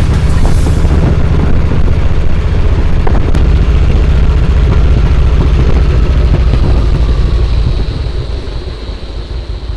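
Yamaha Road Star XV1600's air-cooled V-twin engine running with the bike under way, a loud low rumble that drops off about eight seconds in as the bike eases off.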